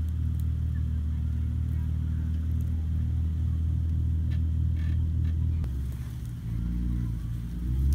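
Jeep Wrangler engine running low and steady as it crawls over rough ground. Its note drops a little past halfway, then rises with a brief swell near the end as it gets more throttle.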